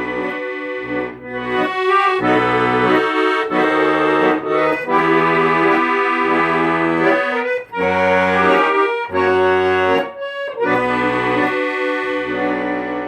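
Accordion music: chords over bass notes that change about once a second, ending on a long final chord.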